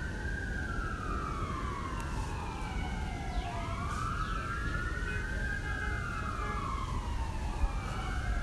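Wailing emergency-vehicle sirens, at least two out of step, each slowly rising and falling in pitch over a low rumble.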